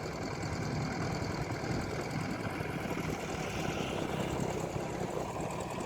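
Motorbike engine running steadily, with no change in speed.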